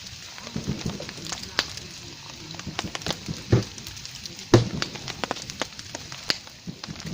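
Wood fire of large logs crackling and popping in irregular sharp snaps, with two louder knocks about three and a half and four and a half seconds in.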